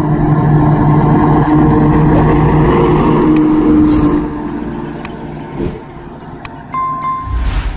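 Heavy truck engine running loudly with a steady low hum, fading away after about four seconds. A brief high-pitched tone sounds about seven seconds in.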